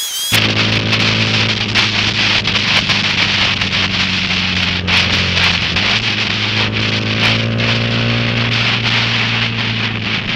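Honda Grom MSX125's single-cylinder 125 cc four-stroke engine running steadily under way, its revs climbing a little about six seconds in, with wind and rain hiss over the onboard camera and scattered raindrop ticks.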